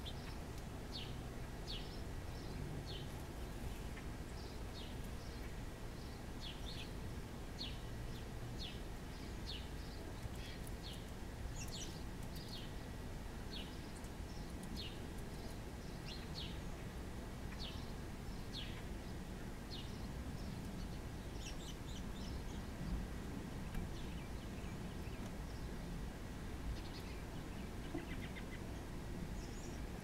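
A small bird repeating short, high chip calls, about one or two a second, thinning out after about twenty seconds, over a steady low outdoor rumble.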